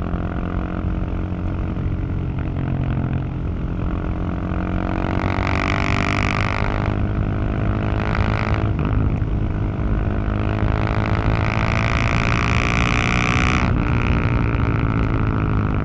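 Husqvarna 701 single-cylinder engine and exhaust under hard riding: twice the revs climb under throttle and then fall away as the throttle closes, the second time dropping off sharply near the end.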